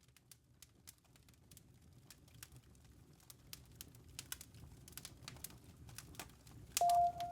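Campfire crackling, fading in: irregular sharp pops and snaps over a low rumble of burning wood. Near the end a steady ringing tone starts and holds, the start of soft background music.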